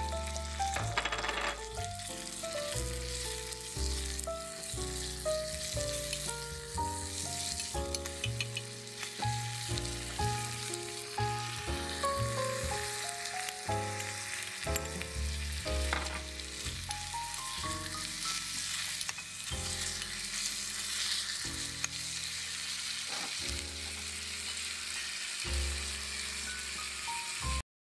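Food frying and sizzling in a tiny ceramic pot, with some stirring. Light instrumental background music with a bass line plays over it, and everything stops abruptly near the end.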